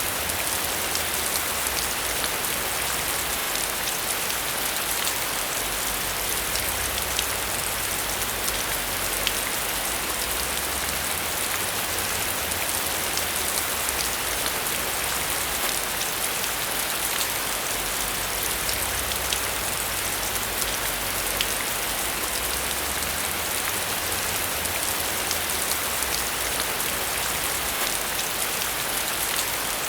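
Steady rain falling, a dense even hiss with many small sharp drop ticks on a surface and a low rumble underneath.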